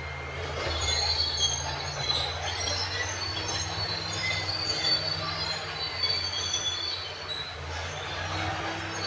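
Crawler bulldozer at work: a steady diesel engine drone with squealing and screeching from its steel tracks.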